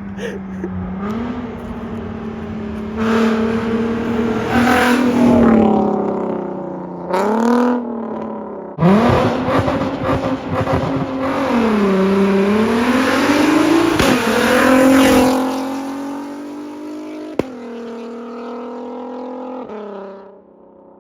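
Straight-piped, catless VW R32's VR6 engine under hard acceleration, very loud: the exhaust note climbs and drops several times through the rev range, then settles to a steadier, quieter drone near the end.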